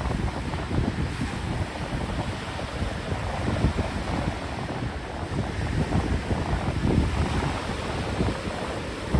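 Wind buffeting the microphone in irregular gusts, with ocean surf washing in behind it.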